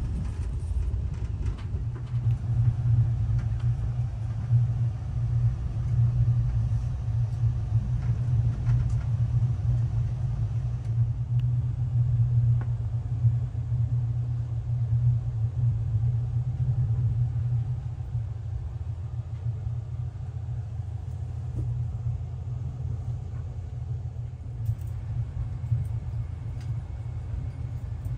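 Steady low rumble of a VR intercity train carriage running on the rails, heard from inside the passenger cabin. The rumble is strongest through the first half and eases a little after about eighteen seconds.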